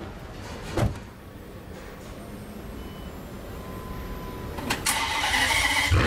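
Ferrari 599 GTO's V12 being started: a single thump about a second in, then near the end the starter cranks and the engine fires up loudly.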